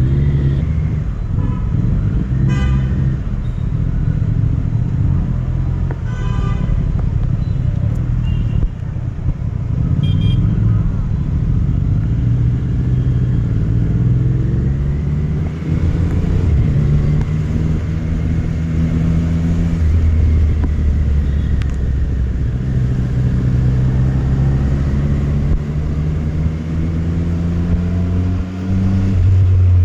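Triumph Street Triple RS's 765 cc three-cylinder engine pulling hard, its pitch climbing and then dropping back at gear changes, twice in the second half. A few short horn toots come in the first ten seconds.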